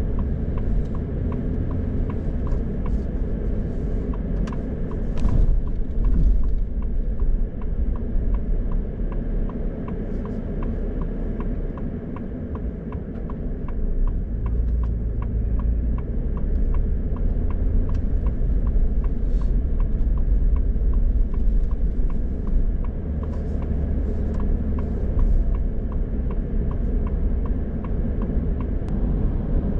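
Car driving with a steady low road rumble, and a regular ticking that keeps an even beat over it.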